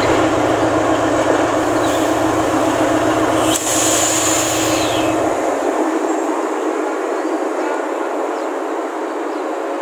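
Diesel locomotive hauling a passenger train as it departs the station, its engine drone dying away about halfway through. The rumble of the coaches rolling on the track carries on, with a brief hiss about four seconds in.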